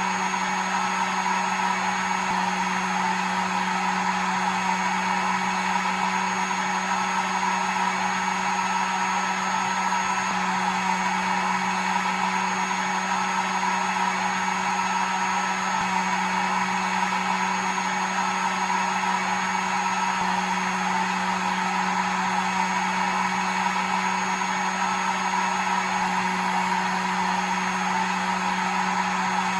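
Hair dryer running steadily: a constant motor hum under an even rushing hiss of blown air, with no change in speed.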